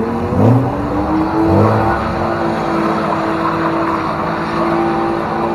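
A BMW E30's engine being revved: two quick blips of the throttle in the first two seconds, then held at a steady high rev.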